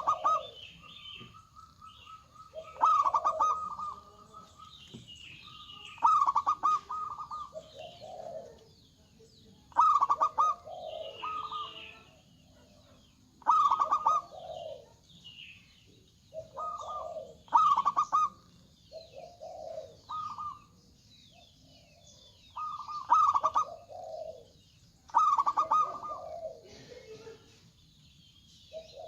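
Zebra doves (perkutut) singing: loud, repeated phrases of rapid, stuttering coos, each trailing into lower notes, one every few seconds.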